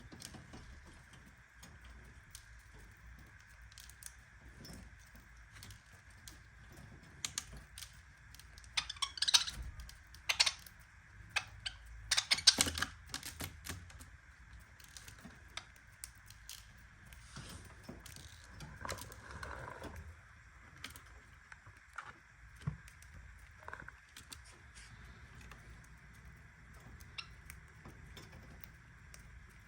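Small clicks and metallic rattles in a budgerigar's cage, scattered throughout, with a run of louder clinks about a third of the way in.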